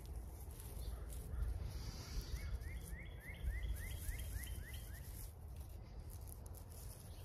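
A bird calling a quick run of about ten short rising chirps, around four a second, over a steady low rumble.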